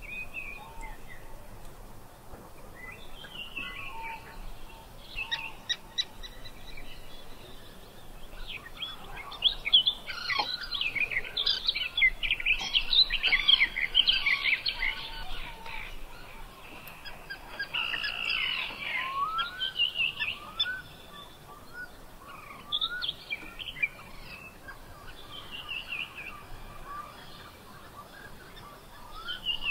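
Several birds singing and calling: overlapping high chirps and trills, thickest from about a third of the way in to the middle, with a few short rising whistles after.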